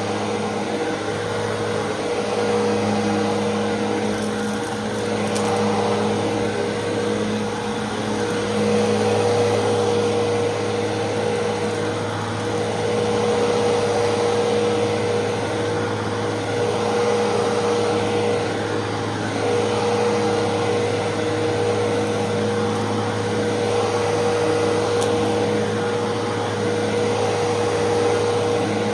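Fantom Fury 10-amp upright vacuum cleaner running steadily with a constant motor whine, its loudness gently rising and falling as it is pushed back and forth over the floor.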